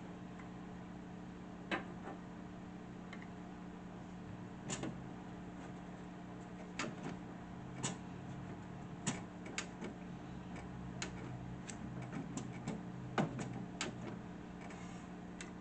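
Scattered light clicks and knocks of hand tools and small metal parts being handled while working on the table saw's hand-wheel assembly, at irregular intervals over a steady low hum.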